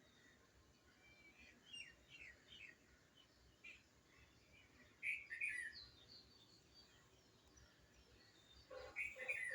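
Birds chirping: scattered short calls, with a louder cluster of chirps about halfway through and another near the end, over a faint background hush.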